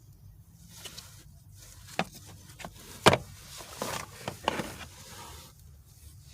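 A few sharp metallic clicks and knocks from hand tools being handled and worked, the loudest just after three seconds in, over a steady low hum.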